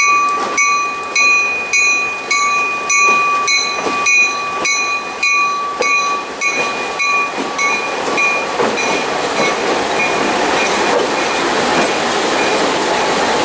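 A railroad bell rings steadily at just under two strokes a second and fades away over the first eight seconds. Meanwhile the steady rolling noise of a moving train builds up and takes over.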